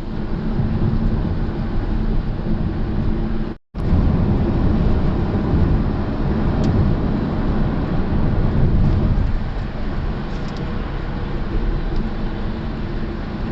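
Steady low rumble of a car's road and engine noise heard from inside the cabin while driving, with no talk. The sound cuts out completely for a split second about three and a half seconds in.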